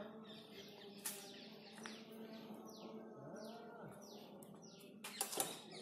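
A bird calling over and over in short notes that fall in pitch, about two a second, over a faint steady background hum. A sharp click comes about a second in, and louder clicks come near the end.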